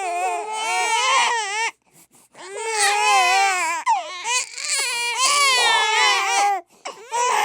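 Babies crying together in long, wavering wails, with brief breaks for breath about two seconds in and again near the end.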